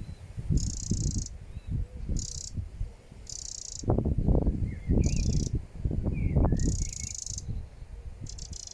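A small bird calling: a high, buzzy trill that lasts about half a second and repeats roughly once a second, with a few short chirps in the middle. Underneath runs a low rumble.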